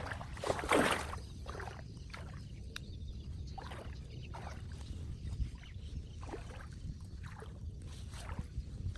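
Floodwater sloshing and splashing in irregular strokes, the loudest about a second in, over a steady low rumble.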